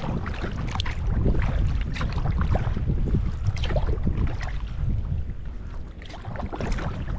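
Strong wind rumbling on the microphone, with irregular splashes and slaps of water from a kayak being paddled through choppy water.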